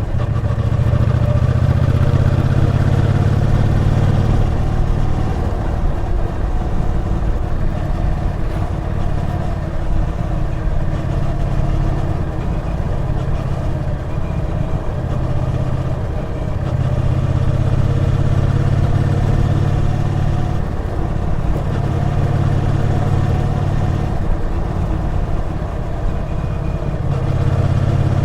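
Triumph Bonneville T120's 1200 cc parallel-twin engine running on the move, its low note getting louder and quieter in spells several times.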